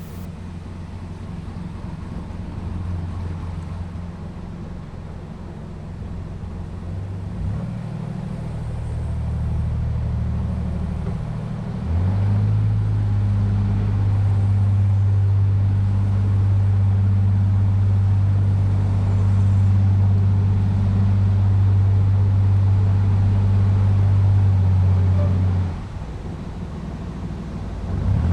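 Narrowboat's inboard diesel engine running at low revs, steadying and changing with the throttle as the boat is manoeuvred through a sharp turn. The engine note steps up and gets louder about twelve seconds in, holds steady, then drops back near the end.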